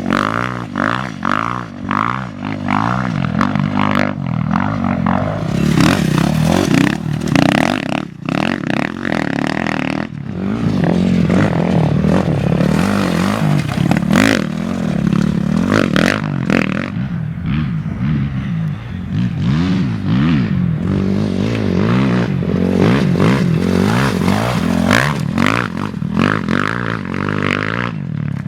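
Off-road race vehicle engines running hard, the pitch rising and falling again and again as they rev and change speed. Short rough rushes of noise and clatter break in across the sound every few seconds.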